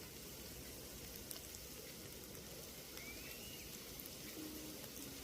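Steady rushing of a flowing river, an even wash of water noise, with a faint short high chirp about three seconds in.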